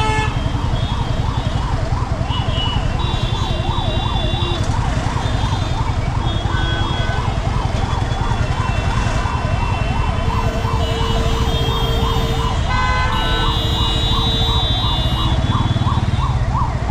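An emergency-vehicle siren wails in a fast yelp, rising and falling about three times a second without a break. Several vehicle horns honk in short and longer blasts over the steady rumble of road traffic.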